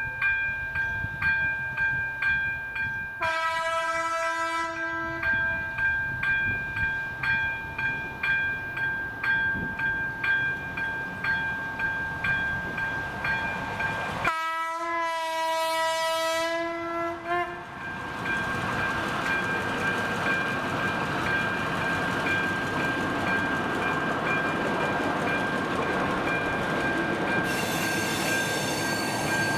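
Level-crossing warning signal with an electric bell ringing steadily, about one and a half strokes a second, while a train sounds its horn twice, a blast of about two seconds and then one of about three seconds. The train then runs over the crossing with a steady rumble, and a high pitched sound starts near the end.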